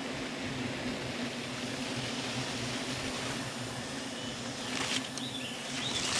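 A swarm of giant honey bees (Apis dorsata) buzzing: a steady, dense drone with no breaks.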